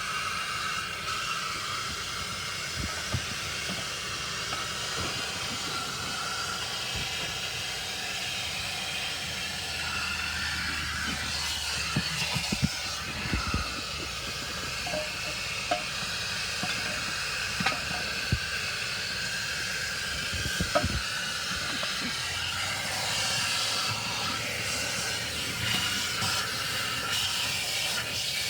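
Automatic car wash heard from inside the car: a steady hiss of water spray and wash machinery against the body, with a few short knocks scattered through the middle.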